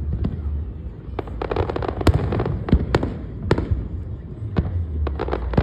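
Fireworks going off in an irregular series of sharp bangs, with a quick run of crackling pops about a second and a half in.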